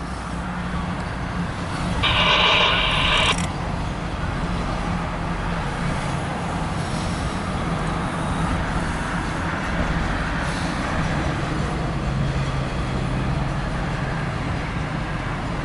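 Diesel locomotives of a Norfolk Southern intermodal freight train running steadily, with a low engine drone and track noise. About two seconds in, a brief high-pitched tone sounds for a second or so.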